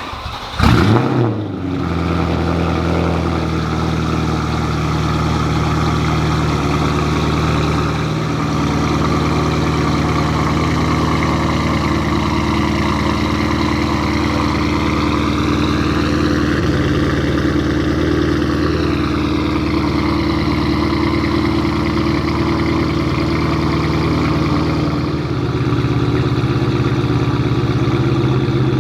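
Porsche Panamera Turbo's twin-turbo V8 starting through a custom 3.5-inch stainless GT3-style exhaust. It gives a short rev flare about a second in, then settles into a steady cold-start fast idle.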